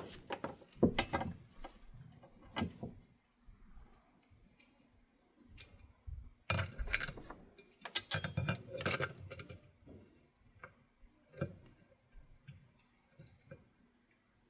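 Small metal parts clinking and clattering as they are handled and fitted, in short irregular bursts of clicks and knocks with quieter gaps, the busiest stretch about halfway through.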